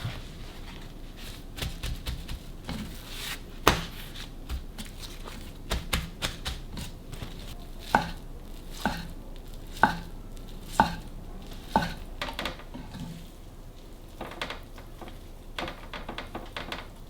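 Kitchen knife chopping food on a cutting board: scattered light knocks, then five sharp chops about a second apart in the middle.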